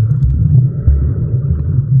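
Loud, muffled low rumbling of moving seawater picked up by a camera underwater, coming in uneven surges.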